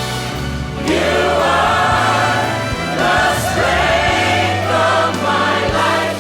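Worship song: a group of voices singing together over instrumental accompaniment.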